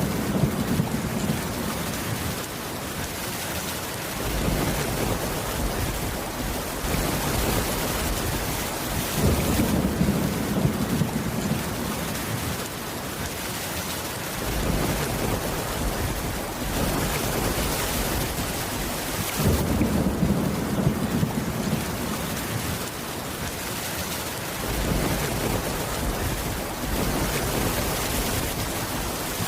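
Steady rain on a wooden cabin roof. Low rumbles of thunder swell in about every ten seconds.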